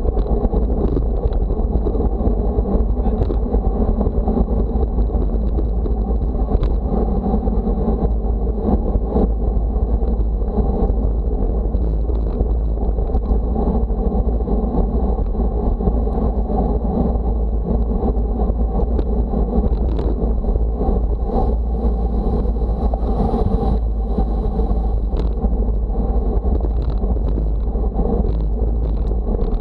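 Steady wind rumble buffeting the microphone, mixed with a continuous rush of road noise.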